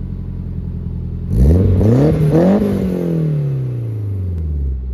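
Car engine idling, then revved once about a second and a half in: the pitch climbs for about a second, then falls slowly back toward idle over the next two seconds.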